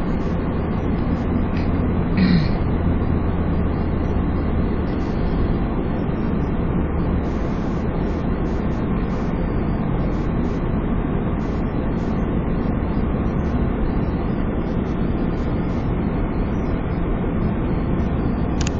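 Steady cabin noise of a car driving on a snow-covered road: engine and tyres, with a low drone in the first few seconds.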